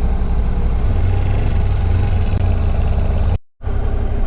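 Motorcycle engine idling steadily, with a brief dropout to silence about three and a half seconds in, after which it runs on unchanged.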